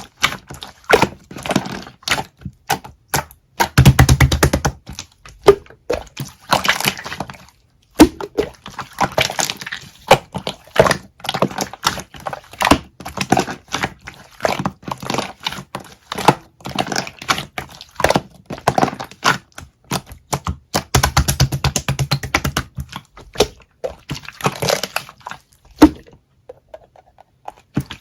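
Dense run of small crackles and clicks, some sharp and loud, with heavier low thumps in clusters twice, about 4 and 21 seconds in; it goes quiet briefly near the end.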